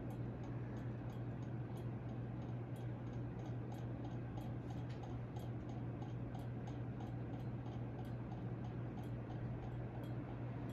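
Hampton Bay Carousel ceiling fan (CEI) running, with a steady motor hum and air noise. Light, irregular ticking clicks come about two or three times a second.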